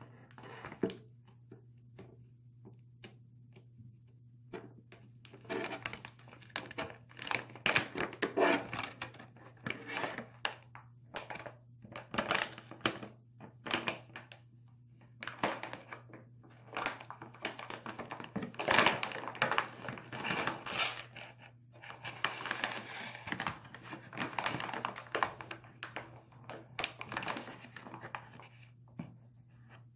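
Plastic bag crinkling and rustling in irregular bursts as squishy toys are handled and pushed into it, with occasional knocks on the tabletop. It starts about four or five seconds in, after a few scattered clicks, over a steady low hum.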